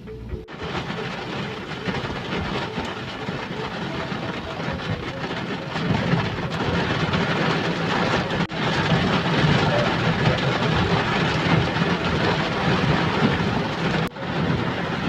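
Heavy downpour of rain, a dense steady roar that grows louder about six seconds in, broken by a few brief jumps.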